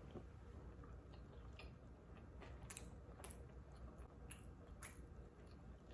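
Faint chewing of a mouthful of California roll sushi, with a few soft clicks scattered through it.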